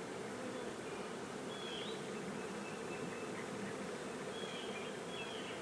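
A swarm of honeybees buzzing steadily in a dense hum, with a few faint high chirps about two seconds in and again near the end.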